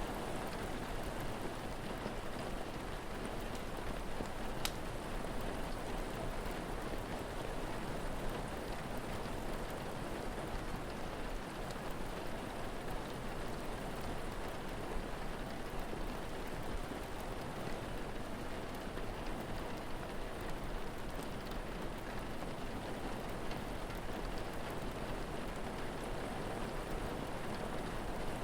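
Steady rain falling, an even hiss of drops hitting surfaces. There is one sharp pop about five seconds in and a few faint clicks later.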